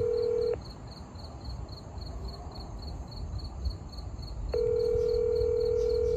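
Telephone ringback tone heard over a phone: a steady ring that ends about half a second in and sounds again about four and a half seconds in, the call ringing unanswered.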